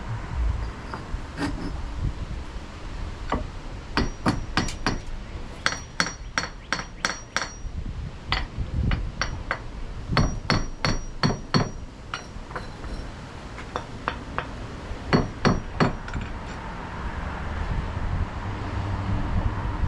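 Hammer blows in quick runs of three to eight strikes, a few seconds apart, each blow with a short metallic ring.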